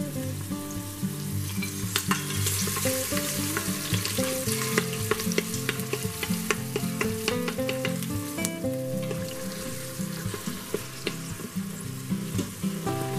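Chopped onions and whole spices sizzling in olive oil in a stainless steel Instant Pot inner pot on sauté, while a wooden spoon stirs them and clicks against the pot. Background music with held notes plays underneath.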